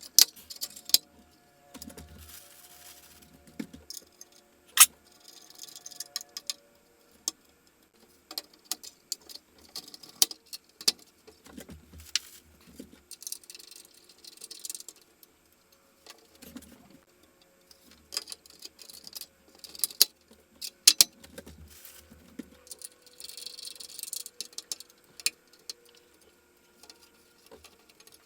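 Irregular clicks, knocks and light rattles of plastic ceiling-fan blades and their hinged latch flaps being handled, slid into place and snapped shut, with a few sharp snaps.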